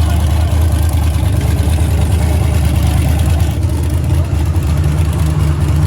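Large truck engine running steadily with a deep, low drone; a second, slightly higher engine note comes in near the end.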